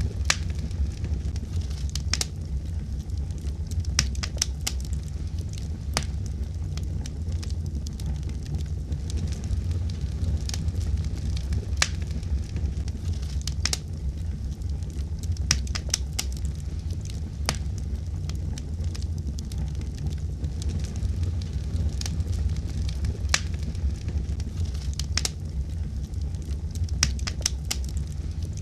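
Wood fire burning in a fireplace: a steady low rumble of the flames with irregular sharp crackles and pops, a louder pop every few seconds.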